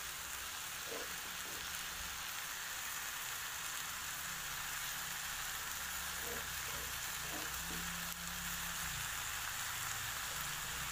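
Shrimp, pineapple chunks and chopped green onions sizzling steadily in oil in a wok.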